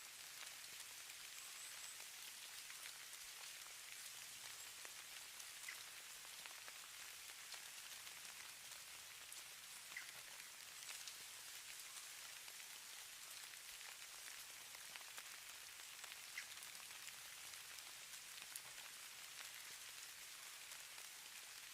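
Falling snow pattering faintly on a surface: a steady soft hiss with scattered tiny ticks.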